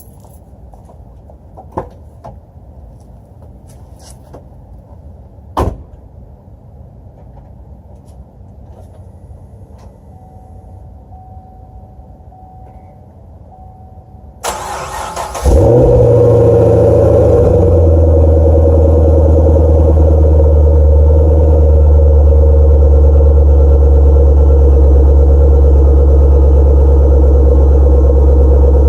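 A few sharp clicks, then the 2010 Camaro SS's 6.2-litre V8 cranks for about a second, catches with a quick flare of revs and settles into a loud, steady cold-start fast idle, heard through its near-stock exhaust with Flowmaster tips.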